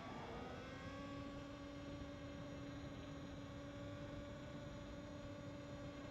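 A motor's whine, rising in pitch within the first second, then holding at a steady pitch.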